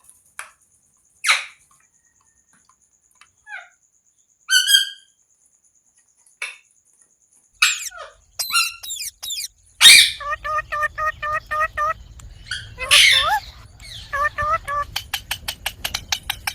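A pet Indian green parrot calling: short squawks and chirps with sliding pitch, sparse at first, then from about halfway a fast run of evenly repeated chirps, with a quick series of clicks near the end.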